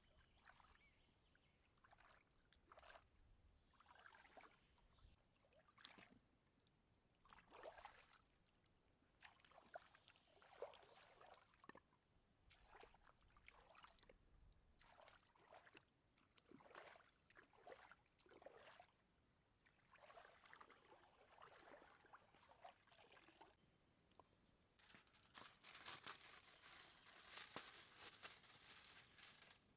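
Quiet, irregular food-preparation handling sounds: short soft scrapes and rustles every second or so, growing denser and louder near the end.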